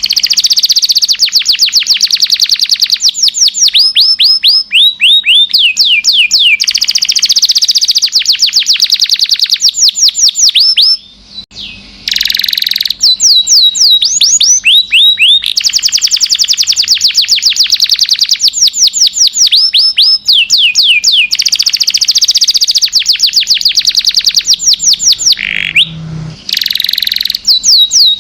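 Domestic canary singing a long, nearly unbroken song of rapid trills, each made of quickly repeated notes that fall in pitch. The song breaks off briefly about eleven seconds in and again near the end.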